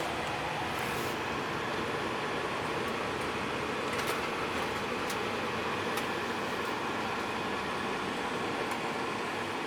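Steady engine and road noise inside a moving bus, with a few light ticks or rattles.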